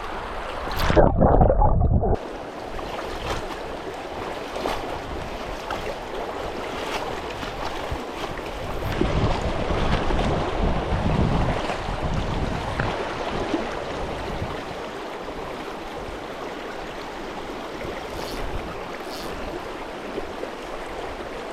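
Steady rush of river current flowing around a small inflatable fishing raft. There is a loud, low rumble on the microphone about a second in.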